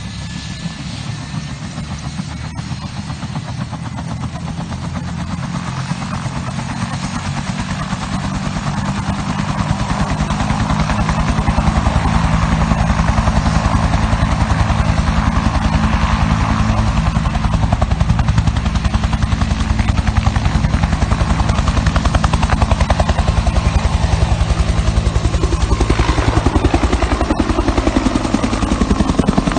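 Bell 210 (UH-1 'Huey') helicopter running, its two-bladed main rotor giving a fast steady chop over the turbine's drone. It grows louder over the first ten seconds or so, then holds steady.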